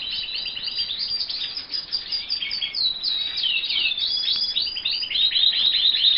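Canaries singing in an aviary: fast repeated chirps and rolling trills, several phrases overlapping at different pitches.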